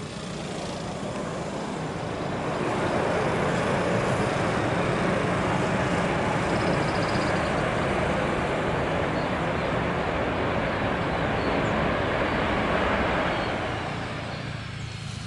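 Citilink Airbus A330 airliner's jet engines passing close by: a loud, even rush of engine noise that swells over the first few seconds, holds for about ten seconds, then fades away.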